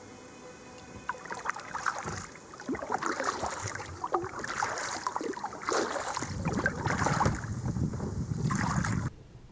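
Kayak paddle dipping and splashing in the water, irregular strokes with drips and gurgles. A low rumble joins in for the last few seconds, and the sound cuts off suddenly near the end.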